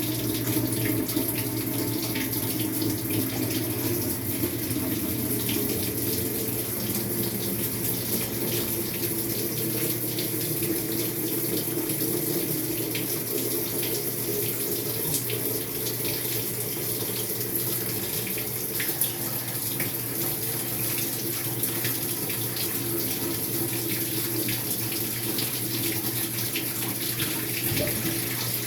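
Maytag MVWX655DW1 top-load washing machine taking in water during a tub-clean cycle: a steady rush of water pouring into the tub, with a low steady hum underneath.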